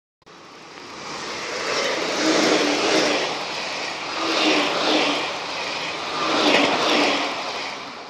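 Odakyu electric train passing close by at a level crossing: loud wheel-on-rail rushing that swells and fades three times, about two seconds apart, as the cars go by.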